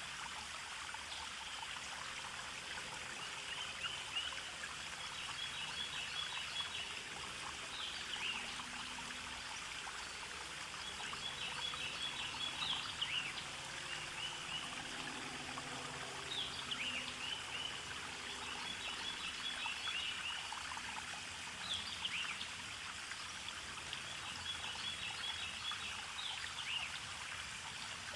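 Forest stream trickling steadily, with songbirds singing over it: a short phrase of quick high notes and downward-slurred chirps that comes back every few seconds.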